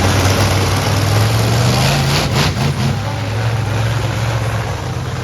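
Monster truck Chevy big-block V8 engines running loud, the revs climbing a little about halfway through and then easing back, with a brief burst of rougher noise about two and a half seconds in.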